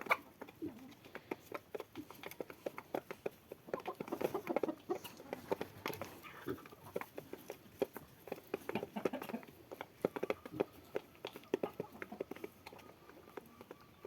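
Domestic chickens clucking, with many short sharp taps and clicks throughout.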